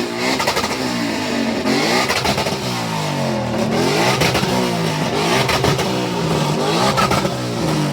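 Ford Mustang's engine revved hard again and again through its exhaust, the pitch climbing and dropping with each blip of the throttle.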